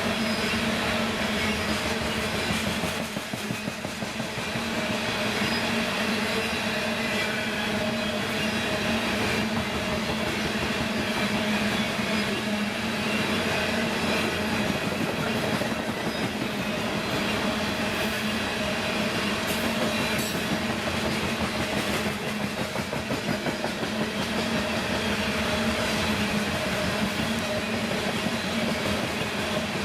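Train rolling steadily past, its cars' wheels clicking over the rails with a continuous rumble.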